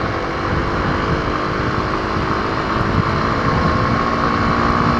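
2021 Kawasaki KLX250's single-cylinder engine running at a steady pace while riding, with wind buffeting the goggle-mounted camera's microphone.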